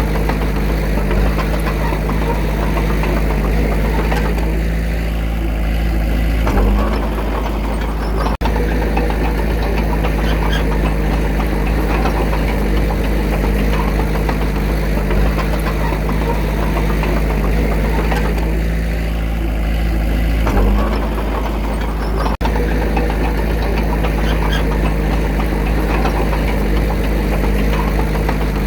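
Diesel engine of earthmoving machinery running steadily with a knocking clatter, shifting briefly in pitch twice, about six and twenty seconds in. The sound cuts out for an instant twice, about eight and twenty-two seconds in.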